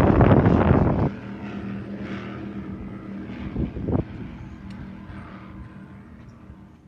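Wind buffeting the microphone for about the first second, then a steady engine drone with a low hum that slowly fades away.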